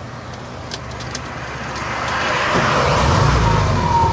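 A car engine running close by, growing louder from about halfway through and settling into a steady low hum, with a steady high-pitched whine over it near the end.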